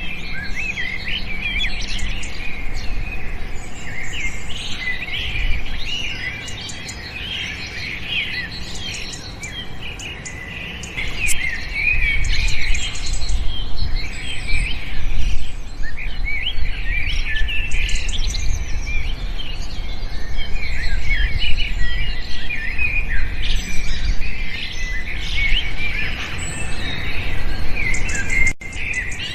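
Many small birds chirping and twittering at once in a dense chorus of short, quick, overlapping calls, over a low rumble. The chorus grows louder about eleven seconds in, and the sound cuts out for an instant near the end.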